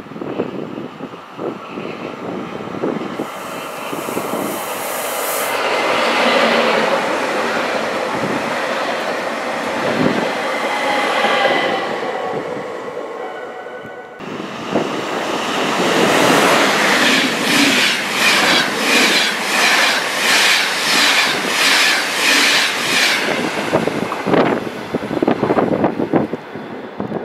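Trains passing through a station at speed: a swelling rush of wheels on rail with a thin squeal that fades out, then after an abrupt change a second passage with a steady clickety-clack of wheels over rail joints, about one and a half beats a second.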